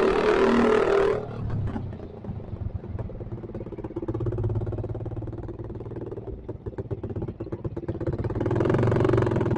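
Motorcycle with a loud aftermarket open exhaust, ridden: the engine is loud under throttle, the throttle closes about a second in and the note drops to a low rumble with crackling pops from the exhaust, then it picks up again near the end.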